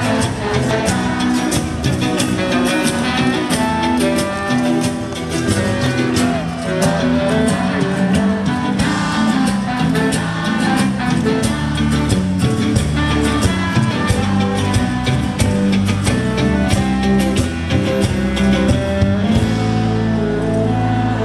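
Band playing live, an instrumental passage with guitars over a steady drum beat.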